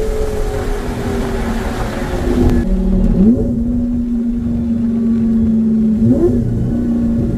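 Twin-turbocharged Lamborghini Gallardo Spyder's V10 running at steady revs, with a brief rise in pitch a little after three seconds in and again about six seconds in.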